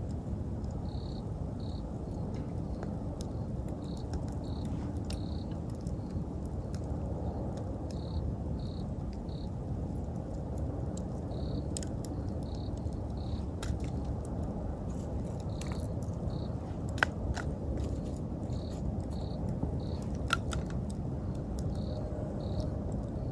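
Bonfire burning with a steady low rumble and scattered crackles and pops, two sharper pops in the second half. An insect chirps in short high notes, in small groups about every second.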